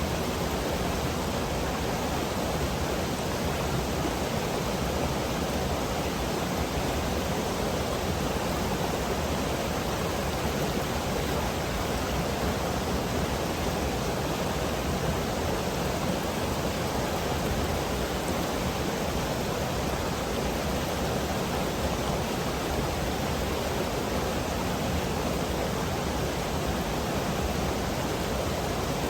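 Mountain river rushing steadily over rocks, an even roar of moving water with no breaks.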